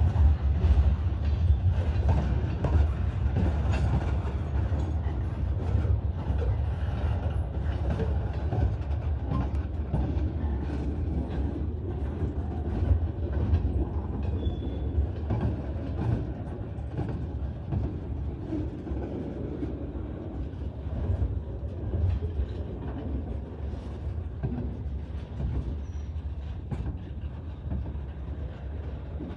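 Freight train cars (covered hoppers, then tank cars) rolling past: a steady low rumble with irregular clacks and clanks from wheels and couplers, gradually getting quieter.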